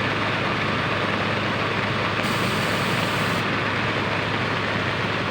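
Heavy diesel engine of a pneumatic tyre roller running steadily at a low, even speed under a constant hiss of rain.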